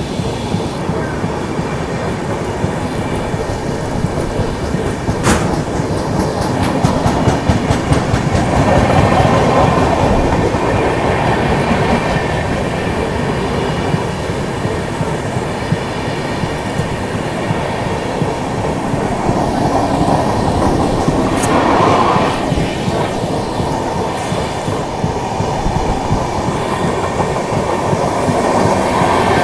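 Running noise of a moving passenger train heard from on board: steady wheel-on-rail rumble with clickety-clack over the rail joints. Two brief sharp clicks stand out, one about five seconds in and one past twenty seconds.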